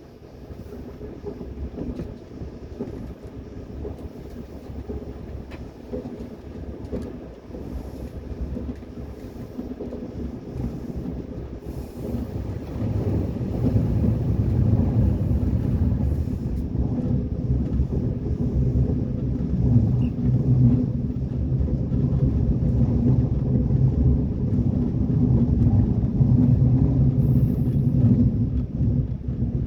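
Train running on rails, a steady low rumble with scattered clicks that grows louder about thirteen seconds in.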